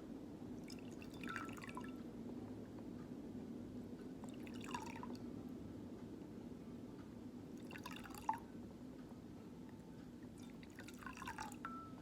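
Faint water drips falling into water, four single drips a few seconds apart, each with a quick falling pitch, over a steady low hum.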